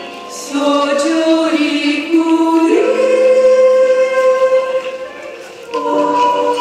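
A choir singing long held notes, one line sliding up in pitch about three seconds in, quieter for a moment shortly before the end.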